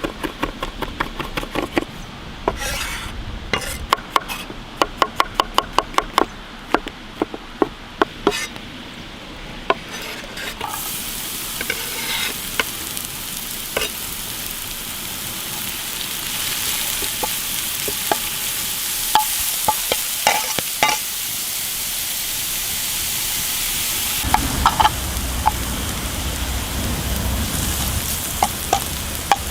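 Quick sharp taps of a utensil against a pan or board, several a second, for the first third. Then food sizzling in a pan over a campfire, a steady hiss that slowly grows louder, with a few more taps and a low rumble near the end.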